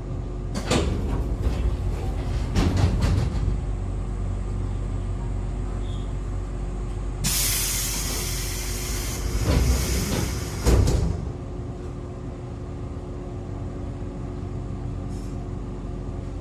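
Inside an Echizen Railway MC6101-series electric railcar: a steady hum of onboard equipment with a few clunks, then a loud burst of compressed-air hiss lasting about four seconds near the middle, ending with two sharp thumps.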